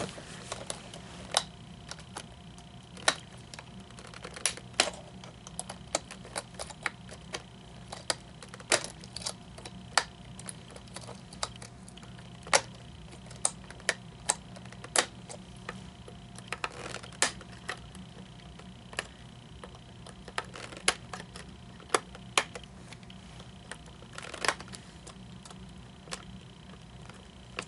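Irregular sharp clicks and taps of a small flathead screwdriver picking at the little black plastic pieces lodged in the hip pins of a Gemmy animatronic, over a steady low hum.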